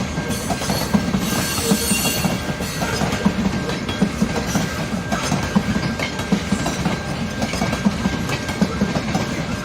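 CN mixed freight train's cars rolling past, the wheels clacking over the rail joints in a steady run of knocks. There is a brief high-pitched noise about two seconds in.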